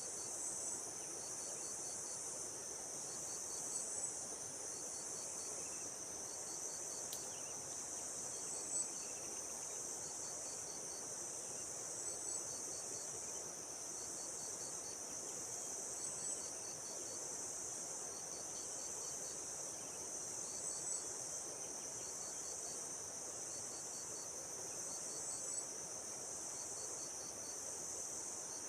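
Steady high-pitched chorus of insects, with short groups of pulsed chirps repeating about every second and a half and a brief brighter chirp about every four seconds.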